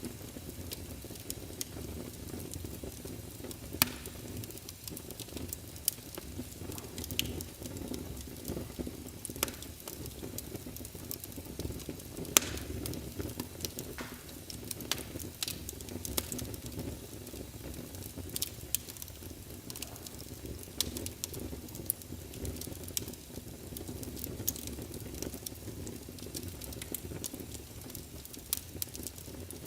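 Wood fire crackling in a fireplace: a steady low rumble of the flames with sharp, irregular pops and snaps from the burning wood.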